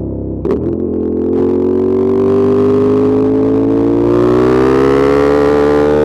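Ducati Monster 1200 S L-twin engine pulling under acceleration while riding: the note breaks briefly about half a second in, then climbs steadily in pitch.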